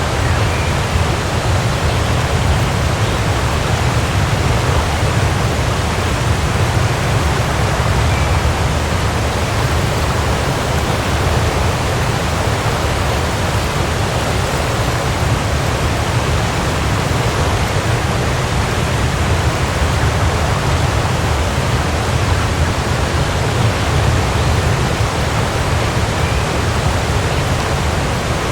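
Waterfall: a steady, even rush of falling water with a deep low rumble.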